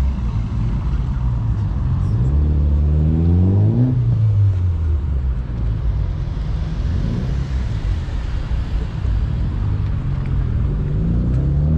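Car engine idling, then revved up and let fall back about three seconds in, and revved up again near the end.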